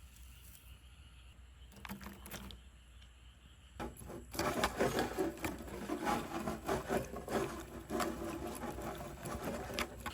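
A spoon stirring and scraping dipping sauce in a small bowl: a few light clicks, then about five seconds of fast, busy mixing strokes that stop suddenly.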